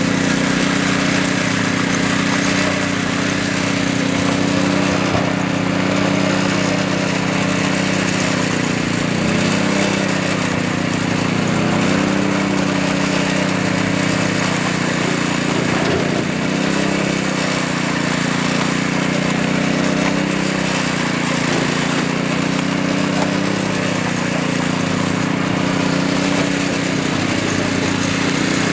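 Small engine of a concrete power trowel running steadily, its pitch dipping and wavering briefly a few times.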